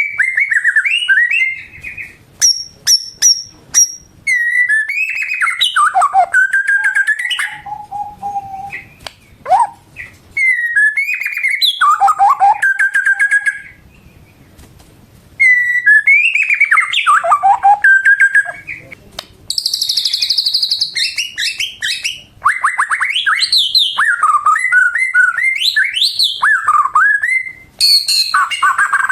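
White-rumped shama (murai batu) singing loud, varied phrases of rich gliding whistles and rapid note runs, broken by short pauses.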